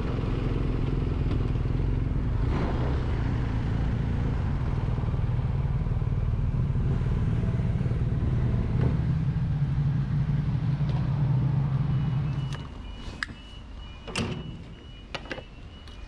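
Motorcycle engine running steadily for about twelve seconds, then dropping away. A few sharp clicks and short high beeps follow near the end.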